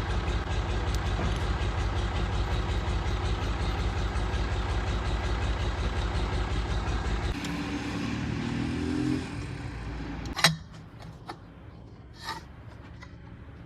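Tractor engine running steadily. Its sound changes about seven seconds in, then drops away after a sharp knock about ten seconds in, leaving a few faint clicks.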